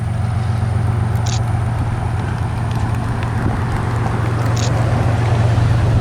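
Freight train rolling past with a steady low rumble, wind buffeting the microphone.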